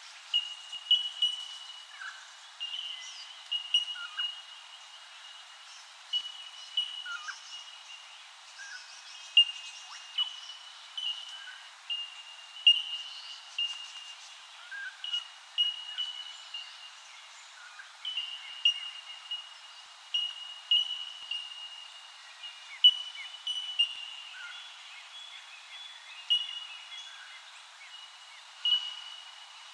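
Birds calling: a short, high, clear note repeated every second or two, with fainter chirps from other birds in between.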